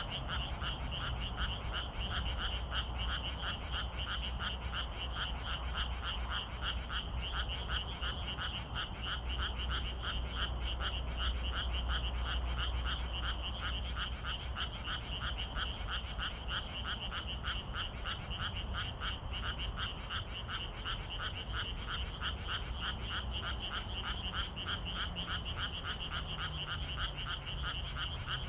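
A chorus of frogs calling in a dense, rapid, even pulsing that never lets up, over a steady low rumble.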